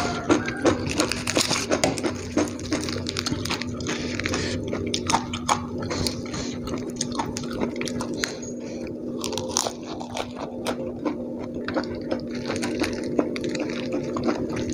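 Close-up chewing and crunching of a meal of smashed fried chicken, rice and raw vegetables, with many small crisp clicks of the mouth and fingers, over a steady low hum.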